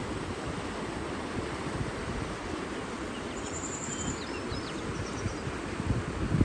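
Steady rushing of an outdoor nature ambience, with a few faint, high bird chirps and a short trill a little past the middle and again near the end.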